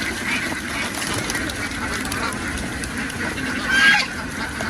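A flock of domestic ducks quacking and chattering together, with one louder call about four seconds in.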